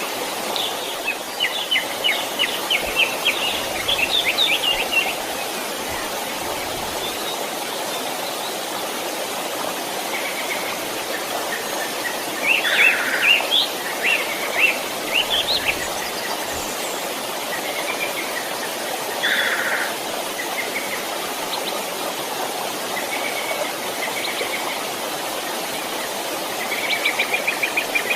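Small stream running steadily, with songbirds calling over it: a quick series of chirps in the first few seconds, another burst of calls about halfway, and a short trill near the end.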